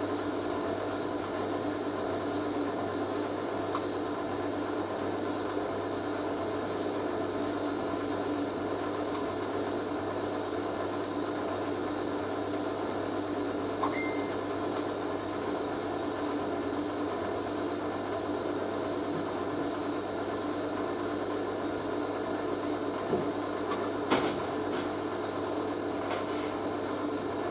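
Hoover A3060 Electronic 1100 washing machine running mid-cycle: a steady, even motor hum with a few faint clicks, the load running stable.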